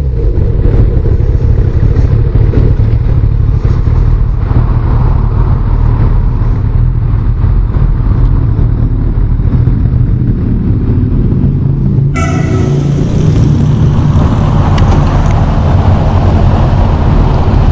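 Motorcycle engine running close by, a steady low rumble; about twelve seconds in the sound suddenly turns brighter and fuller.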